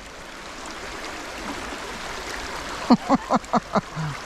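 Steady rushing of a small trout stream. About three seconds in, a quick run of short voice sounds comes over it.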